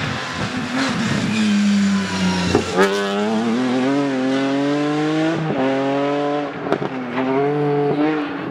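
Rally car engine under hard acceleration. Its pitch climbs and drops back at each of three quick upshifts, with short sharp cracks at the gear changes.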